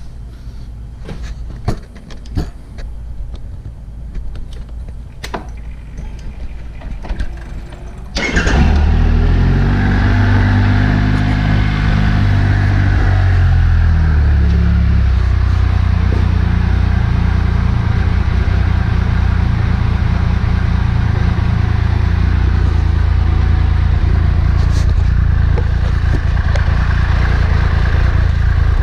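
A few clicks and knocks, then about eight seconds in the Triumph Trophy SE's three-cylinder engine starts. It runs briefly at higher revs that fall back and settles into a steady idle through a Remus titanium exhaust with its baffle core still in.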